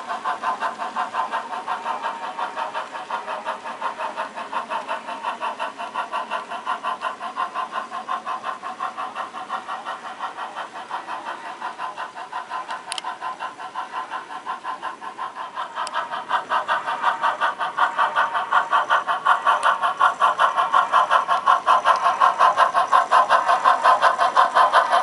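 HO scale model steam locomotive's exhaust chuff from its sound speaker, a steady beat of about three chuffs a second as it works up a grade. It gets louder about sixteen seconds in.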